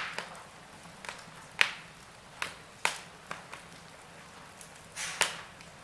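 Wood fire in a fireplace crackling: sharp, irregular pops and snaps of burning logs over a faint hiss, the loudest about a second and a half in and again near the end.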